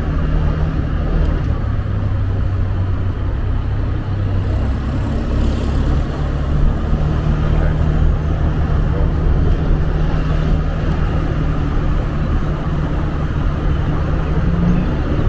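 Motorbike engine running steadily at cruising speed, a constant low hum, with wind and road noise from riding.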